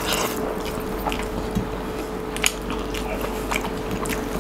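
Close-miked chewing of a mouthful of curry-soaked rice eaten by hand: wet squishing and smacking with many small clicks, over a faint steady hum.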